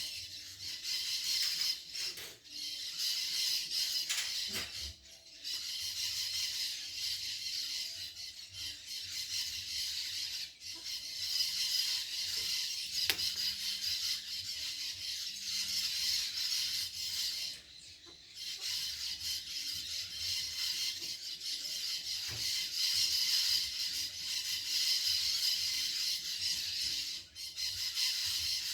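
Natural outdoor ambience: a dense, high-pitched chorus that swells and dips, with a few short clicks and brief lulls.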